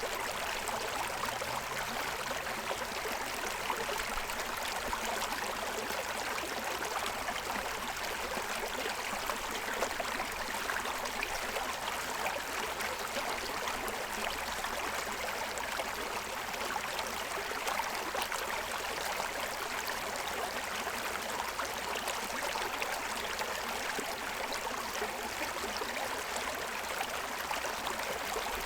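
A small stream running and splashing over the stones of its bed, a steady even rush with fine babbling and gurgling.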